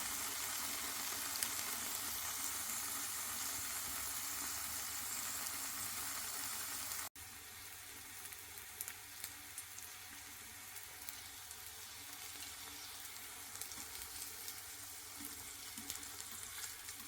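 Tofu frying in a pan: steady sizzling and crackling oil. About seven seconds in it cuts off abruptly and resumes a little quieter.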